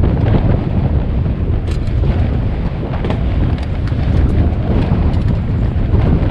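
Strong gusting wind buffeting the microphone: a loud, continuous low rumble with no letup.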